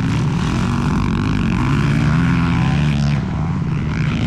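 Several motocross bike engines running on the track, their pitch rising and falling as the riders rev and shift.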